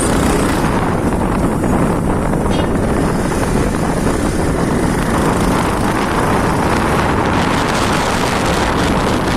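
Steady vehicle running noise mixed with wind buffeting the microphone, as heard while riding in a moving vehicle.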